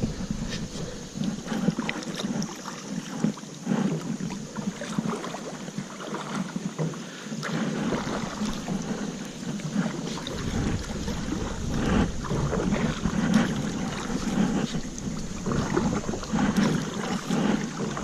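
Choppy river water splashing and slapping irregularly against a Dagger Axis kayak's hull as it is paddled. Wind buffets the microphone with a low rumble from about ten seconds in.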